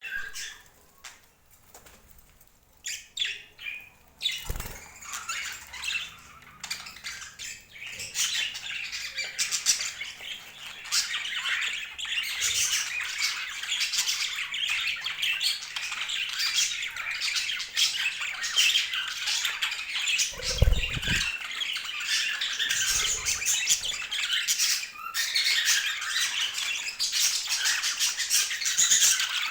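Pet budgerigars chirping and squawking: a few scattered calls at first, then continuous busy chatter from about four seconds in. A short low thump comes about two-thirds of the way through.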